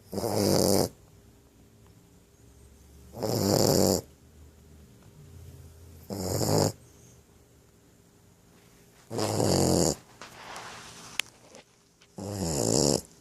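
Boxer puppy snoring heavily in her sleep: five loud snores about three seconds apart, each under a second long. A fainter breath and a sharp click come between the fourth and fifth.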